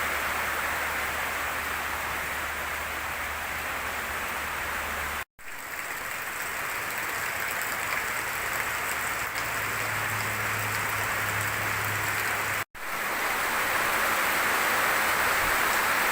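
Rain falling steadily, an even hiss of water, broken by two abrupt cuts where the footage is edited. A faint low hum sits underneath in the first few seconds.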